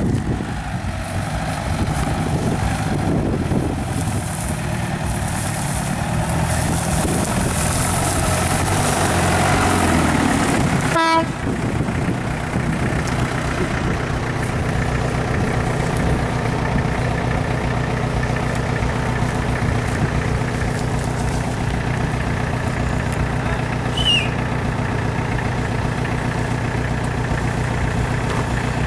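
A UAZ off-road vehicle's engine running steadily. The sound breaks off abruptly about 11 seconds in and resumes as a steadier, even engine hum, with one brief high squeak late on.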